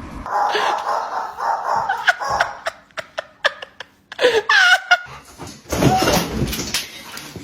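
People laughing in bouts, with a few sharp clicks in between.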